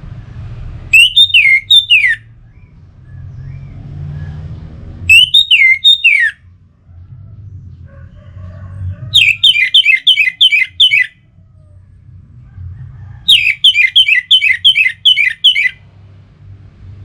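Orange-headed thrush singing in four phrases of sharp, quickly falling notes: two short phrases of three or four notes, then two longer rapid runs of about eight or nine notes each. A low rumble sits beneath the gaps between phrases.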